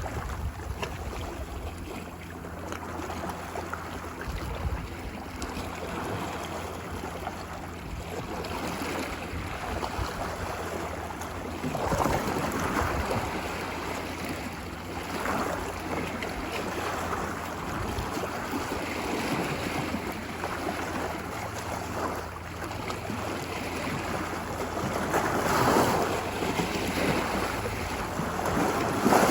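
Ocean surf washing onto a beach: a continuous wash of water, with waves surging louder about twelve, fifteen and twenty-six seconds in.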